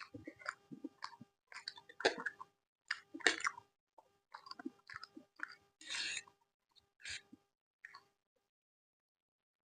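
Close-miked chewing and eating: irregular wet smacks and crunchy bites a fraction of a second apart, falling quiet near the end.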